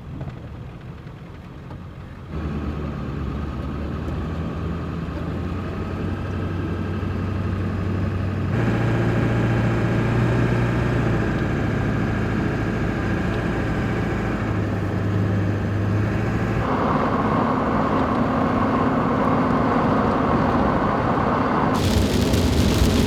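Pickup truck engine and road noise heard from inside the cab while driving, its steady hum changing pitch at several abrupt cuts. Near the end a louder hiss of heavy rain comes in.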